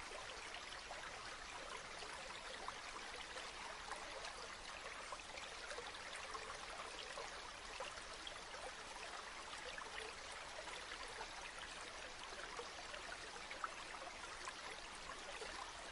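A river or stream flowing steadily: a continuous rush of water with small splashing ticks through it.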